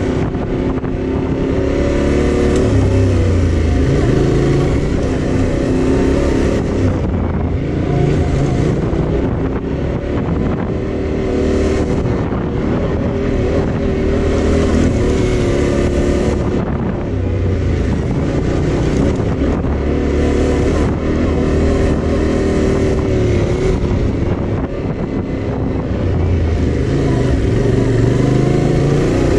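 Yamaha Ténéré 700's parallel-twin engine running while being ridden, its pitch rising and falling with the throttle, under a constant hiss.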